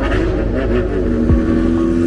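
Vehicle engines running and revving as cars and motorcycles arrive, with wavering engine pitch in the first second. Steady held tones set in about halfway through, and there is a short falling sweep.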